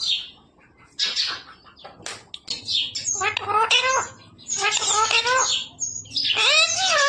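Pet green parrot chattering and squawking in short high-pitched bursts with bending pitch. After a quiet first second come a few brief calls, then louder bursts about three, five and six-and-a-half seconds in.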